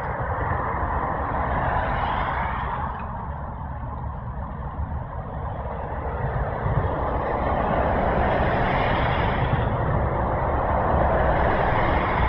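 Steady road traffic from a dual carriageway, a continuous rush of tyres and engines that swells and fades as vehicles pass, loudest in the second half.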